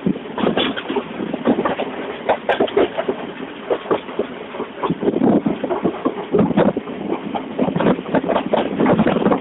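Railway station ambience: a train's rumble with irregular, continuous clattering.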